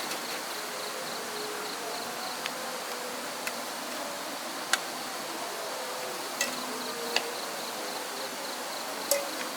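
Steady high-pitched insect chirring in the background, with a handful of sharp, short clicks scattered through it.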